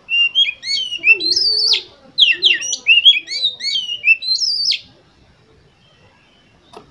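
Oriental magpie-robin singing a fast, varied phrase of sliding whistles and chirps for about five seconds, then a single short click near the end.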